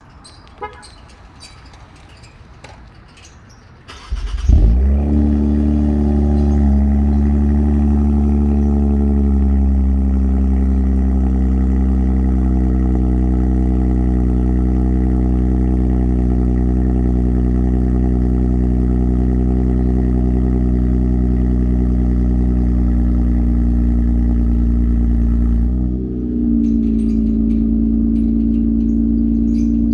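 Infiniti Q60's 3.0 twin-turbo V6 (VR30DDTT) starting about four seconds in. It flares up loudly, then settles into a steady high idle whose pitch slowly eases down. Near the end the idle dips briefly and then holds steady.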